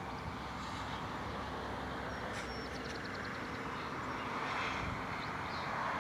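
Steady road-traffic noise, with a vehicle passing that grows louder about four to six seconds in. A few faint high chirps sound over it.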